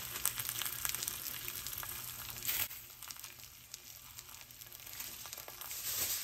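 Ground-beef patties with diced onions and bell peppers sizzling in oil in a cast-iron skillet: a steady hiss dotted with small pops, easing off for a couple of seconds midway.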